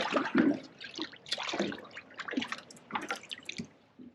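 Water splashing and dripping in short, irregular bursts.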